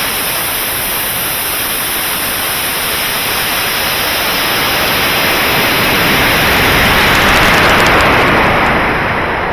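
High-power rocket in flight: a loud, steady rushing roar of motor and airflow, swelling about seven seconds in and easing near the end.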